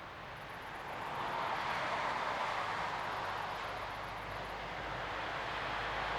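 Jet engine roar of a four-engine Boeing 747-400 airliner passing by. The rushing noise grows louder about a second in, eases a little, then swells again.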